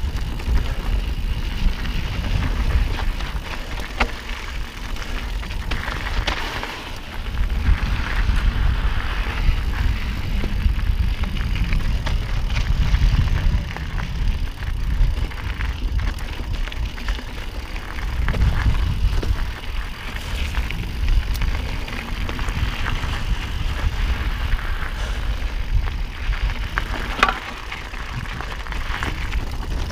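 Mountain bike riding over rocky dirt singletrack: tyres crunching on gravel, scattered clicks and rattles from the bike, and a wind rumble on the microphone that swells and fades.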